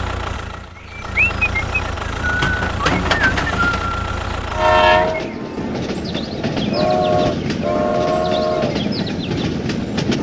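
Steady low vehicle rumble with three horn blasts: a short one about four and a half seconds in, then two more near the middle, the last one longest.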